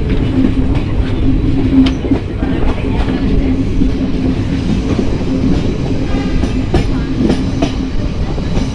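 Train running along the rails: a steady rumble with a constant low hum, and a few sharp clicks of wheels over rail joints about two seconds in and again near the end.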